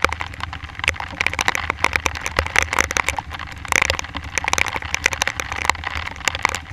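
Raindrops hitting an action-camera housing in a rapid, irregular patter of sharp ticks, over a low, steady rumble.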